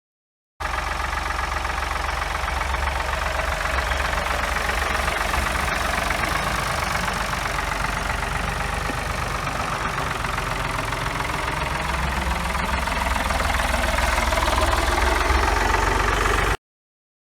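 1980 Ford 4100 tractor engine running steadily at idle, getting a little louder near the end; it starts and cuts off suddenly.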